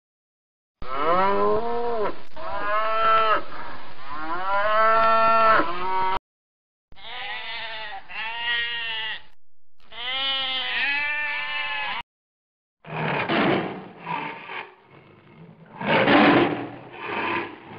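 Three clips of animal calls in a row. First come loud, wavering calls that go with the alpaca picture. About seven seconds in come two long, quavering sheep bleats. Then, from about thirteen seconds, rough growls go with the tiger, loudest near the end.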